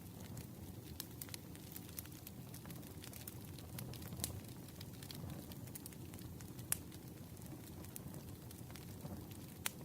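Bonfire burning with a steady low rumble and scattered crackles and pops, two of them sharper and louder about two-thirds of the way through and near the end.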